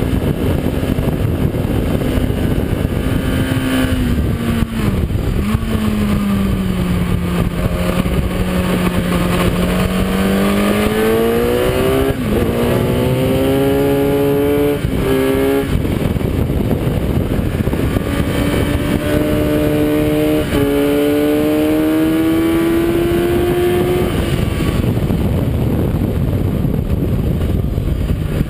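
Kawasaki ZX-10R's inline-four engine at track speed, heard from the bike under heavy wind rush. Its pitch sags and holds low for a few seconds, then climbs through the gears with sudden drops at upshifts around halfway through. It climbs again until the engine tone fades into the wind near the end.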